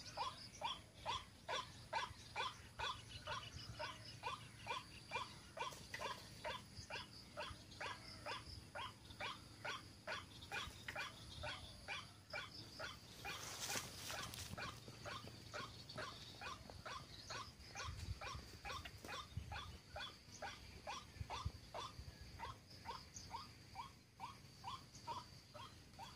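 White-breasted waterhen (ruak-ruak) giving its repeated call: a long, even run of short pitched notes, about two to three a second, with a brief burst of noise about halfway through.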